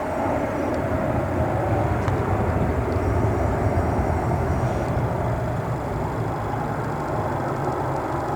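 Jet airliner engines heard at an airport: a steady rumble that swells a few seconds in, then slowly eases.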